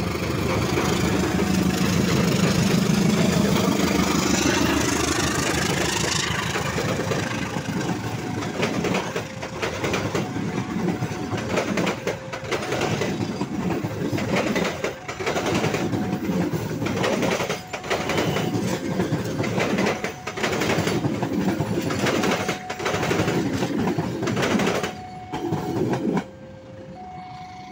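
Diesel-electric locomotive engine running loud as it passes. The passenger coaches' wheels then clatter rhythmically over the rail joints and crossing, under a level-crossing warning alarm sounding two alternating tones. The clatter stops abruptly near the end, leaving the alarm.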